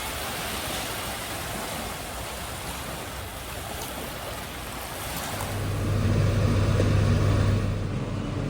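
A steady rushing noise, then about five seconds in an electric motor starts humming steadily and loudly.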